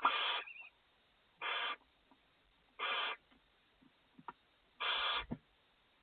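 Barn owl nestlings giving their hissing begging calls, four drawn-out hisses about a second and a half apart, with a few faint clicks and a soft bump near the end.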